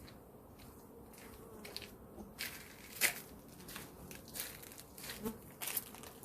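Italian honeybees buzzing around an open hive in a faint steady hum. From about two seconds in, short crackling, rustling handling noises come on top, the sharpest about three seconds in.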